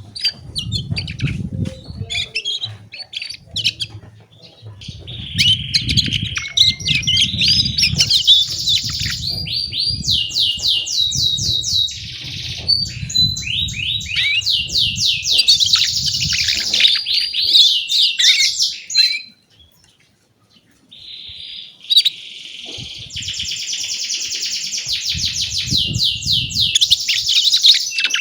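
Canary singing: long runs of rapid trills and rolls, breaking off for a second or two about two-thirds through, with a low rumble under much of it.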